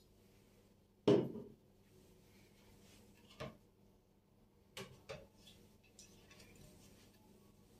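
Kitchen cupboard handling: one loud knock about a second in that rings briefly, then three lighter clicks and knocks, the last two close together.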